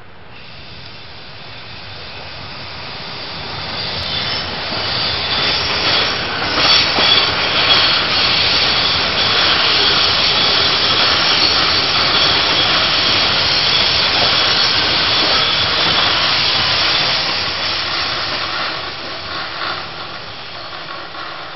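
TEMU1000 Taroko Express electric tilting train passing on a curve, the rumble and hiss of wheels on rail swelling as it approaches, holding loud for about ten seconds and fading near the end. High steady squealing tones ride over the rumble, and a few sharp clacks come about six to eight seconds in.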